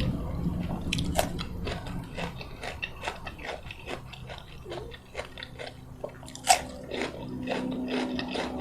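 Close-miked eating: mouth chewing and biting food with many small crisp crunches and wet clicks, one sharp loud crunch about six and a half seconds in.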